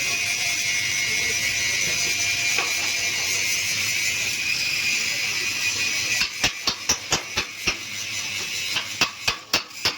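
A steady high hiss, then from about six seconds in a quick, uneven series of sharp mechanical clicks or knocks.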